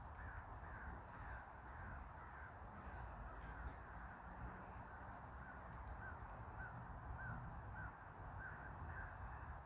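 Faint, steady series of short calls, about two a second, from an animal, heard over a low background rumble.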